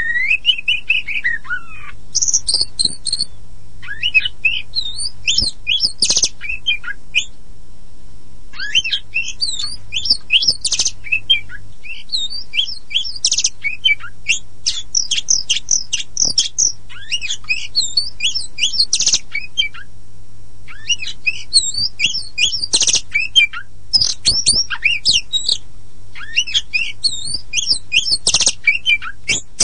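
Oriental magpie-robin (kacer poci, the black-and-white form) singing in runs of rapid, varied high chirps and whistles, broken by a couple of brief pauses.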